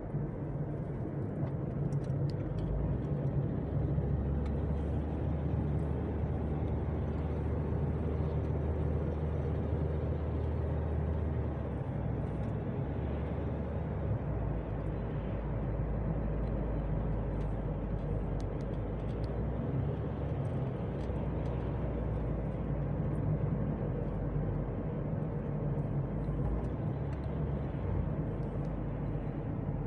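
Car engine and tyre noise heard from inside the cabin while driving: a steady low drone whose pitch shifts a few times.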